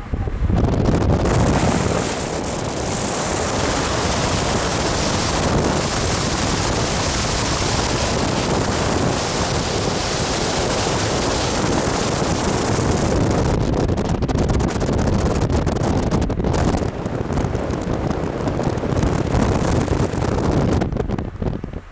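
Loud wind buffeting the microphone: a dense, rushing noise throughout, with a hissing top that eases about thirteen seconds in.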